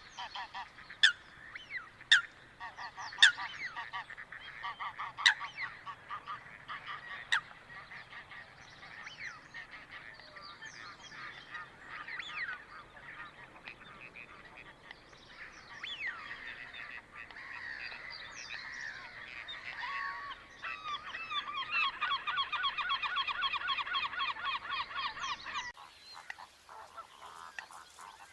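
Coots calling: a run of sharp, loud single calls over a steady chorus of other calls, then a fast, even chattering trill starting a little over twenty seconds in. The chatter breaks off abruptly near the end, where a quieter recording takes over.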